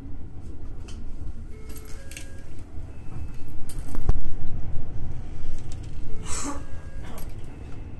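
Musashino Line electric train running on the rails, a steady low rumble with scattered clinks and rattles. There is a sharp knock about halfway through and a brief hiss a couple of seconds later.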